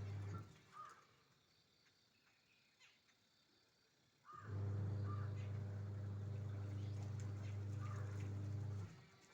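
A bird gives a few short calls, spaced a second or more apart. Under them runs a steady low hum that stops about half a second in, comes back about four seconds in and cuts off near the end; the hum is the loudest sound.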